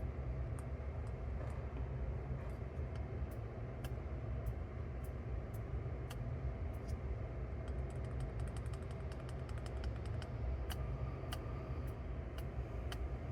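Scattered small clicks and ticks from hand work on a cassette deck's tape transport mechanism while its motor bearing is being lubricated, with a quick run of clicks about eight seconds in. A steady low hum runs underneath.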